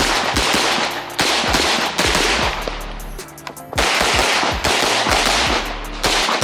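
Rapid pistol fire from a 9mm major Open-division race gun: strings of quick shots with brief pauses between them and a longer break a little past halfway. Background music plays underneath.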